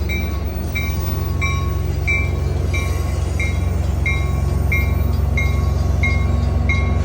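F59PHI diesel locomotive running with a steady low hum, while a bell dings evenly about one and a half times a second.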